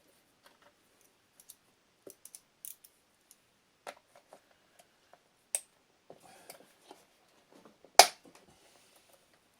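Hand tools clicking and clinking against the blower's metal and plastic parts while fasteners holding the motor are worked on, with a sharp knock about five and a half seconds in and a louder, sharper knock about eight seconds in.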